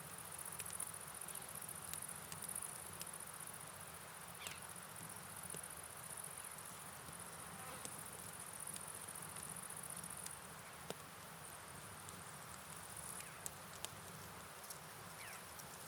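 Steady rain and river noise with a high, continuous insect trill over it that fades for a few seconds past the middle and then comes back, and scattered faint ticks of drops.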